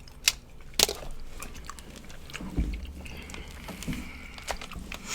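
Close-up eating of barbecue ribs: biting and chewing with wet mouth smacks and clicks. There are two sharp clicks within the first second and a low thump about halfway.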